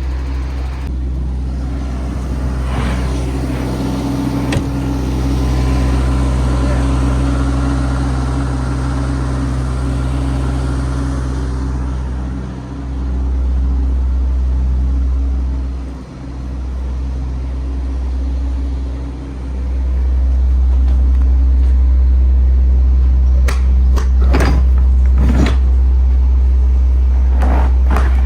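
MAN TGX 18.510 truck's diesel engine running with a steady low rumble, growing louder about twenty seconds in. Several short, sharp noises near the end.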